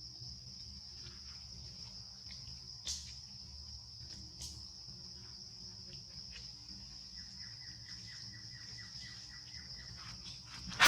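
Steady high-pitched drone of crickets, with a few faint clicks and a short run of rapid ticking in the last few seconds. A loud, noisy burst comes in right at the end.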